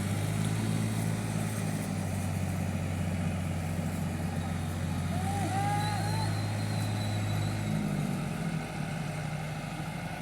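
Massey Ferguson 385 tractor's diesel engine running steadily with a low hum, which shifts and thins about eight seconds in. A few short rising-and-falling chirps are heard about halfway through.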